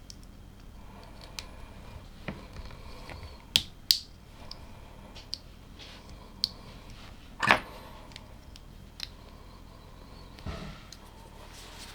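LEGO pieces being handled and pressed together: scattered sharp plastic clicks and taps, the loudest about seven and a half seconds in.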